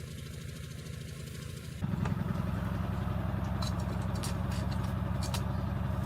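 A small engine running steadily at idle, with a low, even pulse. It gets louder about two seconds in, and a few faint clicks come near the middle.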